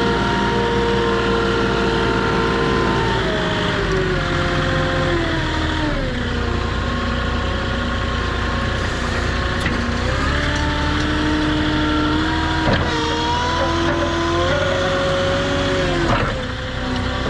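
Engine running, its speed stepping down and back up several times, with a single knock about two-thirds of the way through.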